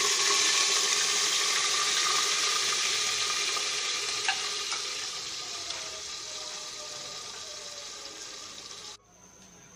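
Onion paste sizzling in hot oil in an aluminium pressure cooker, loudest as it goes in and slowly dying down. It cuts off abruptly near the end.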